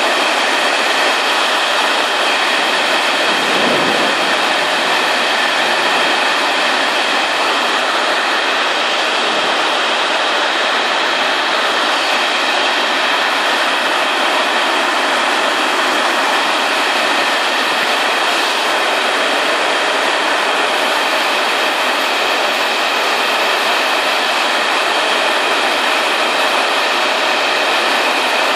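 Heavy rain pouring down in a steady, loud hiss, splashing into standing floodwater on the yard.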